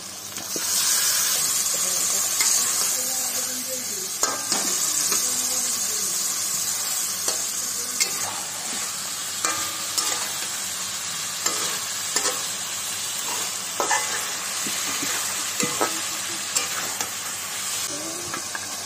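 Raw chicken pieces sizzling in hot oil and spice paste in a kadai, the sizzle jumping up about half a second in as they go into the pan. A metal spatula scrapes and clicks against the pan as the chicken is stirred through the masala.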